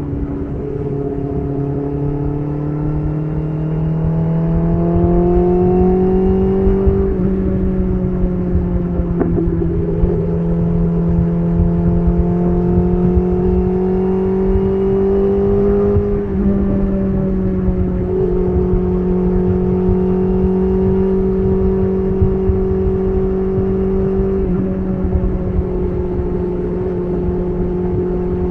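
BMW S1000RR's inline-four engine through an SC Project titanium exhaust, running steadily at moderate revs on the move. Its pitch climbs slowly and dips back a little a few times as the throttle and gears change.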